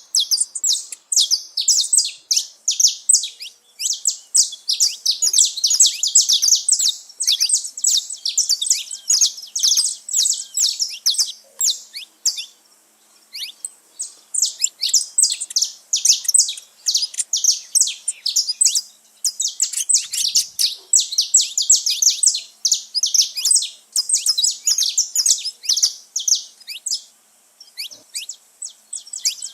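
Several saffron finches singing together, a dense stream of rapid, high chirps, with a short lull about halfway through and another near the end.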